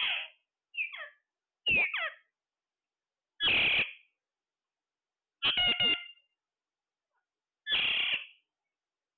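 Parrot calling: six short, harsh calls spaced one to two seconds apart, several of them sweeping down in pitch. The one just before six seconds in is a quick run of three notes.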